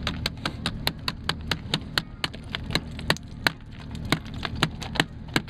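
Ice being chipped off a frozen car door with fast, even hand-held strikes, about four sharp knocks a second, over a low steady rumble.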